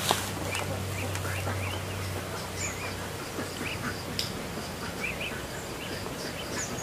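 Birds chirping: short, high chirps repeated irregularly throughout. A low steady hum underneath fades out about two seconds in.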